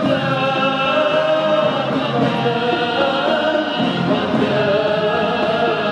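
Symphony orchestra and choir performing, the voices singing long held notes over the orchestra.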